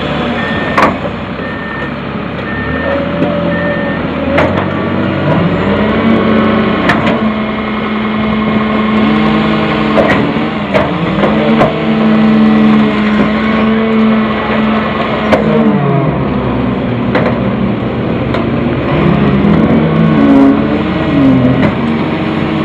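Freightliner FL80 rear-loader refuse truck running, its engine rising in pitch and holding high for several seconds at a time, dropping back and rising again, as it would when the hydraulics are worked. A reversing alarm beeps over the first few seconds, and sharp cracks come through now and then.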